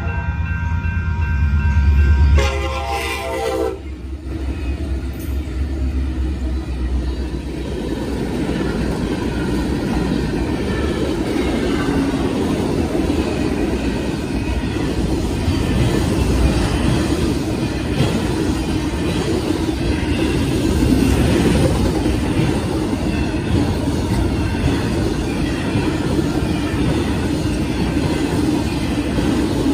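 Union Pacific freight locomotive's air horn sounding as it nears the crossing, stopping about two seconds in, then a shorter, lower-pitched blast as it passes. After that comes the steady rumble and clatter of freight cars' wheels rolling over the rails.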